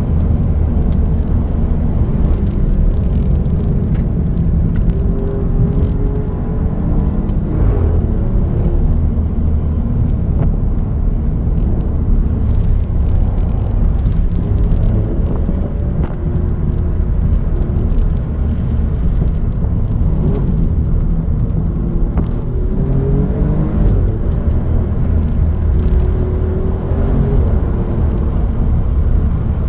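Alfa Romeo Giulia QV's twin-turbo V6 heard from inside the cabin over a steady low road rumble, its note rising and falling several times as the car speeds up and slows.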